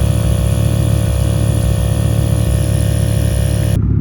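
Car engine running steadily at idle, a low even hum with a broad hiss over it; near the end the hiss cuts off abruptly and only the low engine hum is left.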